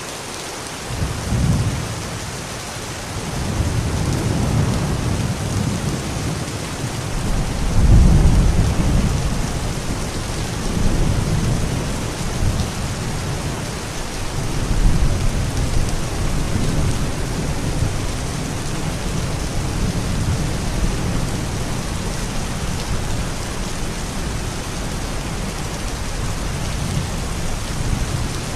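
Steady rain with rolling thunder: a low rumble begins about a second in, swells loudest roughly a quarter of the way through, rolls twice more, then settles into a continuous low rumble under the rain.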